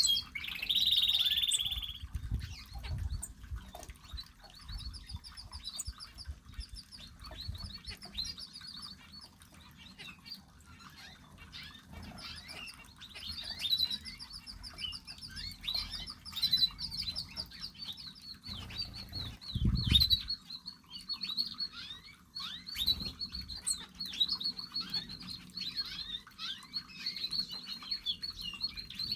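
Small aviary birds chirping and calling, many short rapid chirps overlapping one another, with low thumps now and then, the loudest about 20 seconds in.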